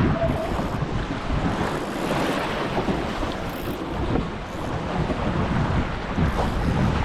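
Strong wind buffeting the microphone and water rushing past the hull of a 29er skiff sailing fast in 15–17 knots of breeze. It is a dense, steady rush that swells and eases with the gusts.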